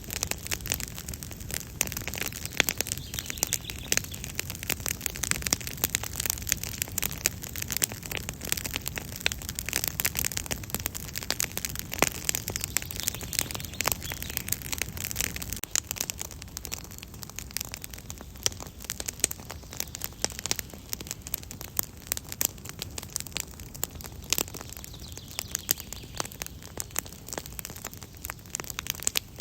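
Wood campfire crackling steadily, with dense snapping pops over a low rushing of flames.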